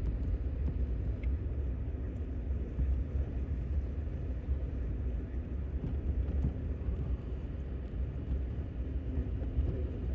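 A truck driving on a snow-covered road, its engine and tyres making a steady low rumble.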